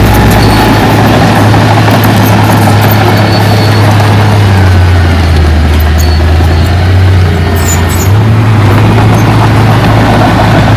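Diesel engine of heavy earthmoving equipment running steadily. Its pitch drops for a few seconds in the middle, then comes back up.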